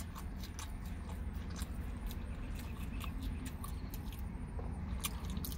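A man chewing a mouthful of greasy bagel sandwich with his mouth closed: irregular wet clicks and smacks, over a steady low hum.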